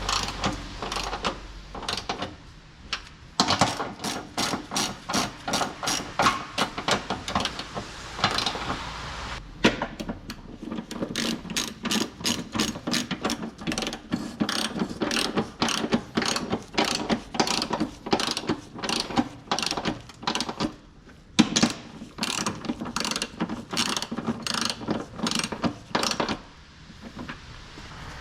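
Hand ratchet wrench with a socket being worked back and forth, its pawl clicking in quick runs of a few clicks a second, with short pauses between runs.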